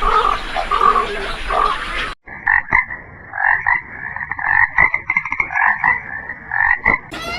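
Frogs croaking in repeated calls. About two seconds in, a cut switches to another recording of quicker, pulsed, higher-pitched calls.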